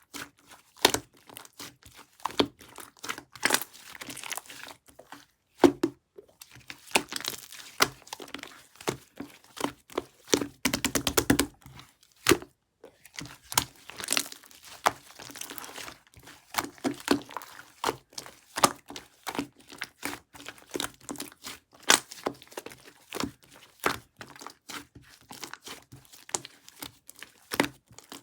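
Opaque pudding slime being worked by hand: a stream of sticky clicks, pops and squelches, with a fast run of crackling pops about eleven seconds in.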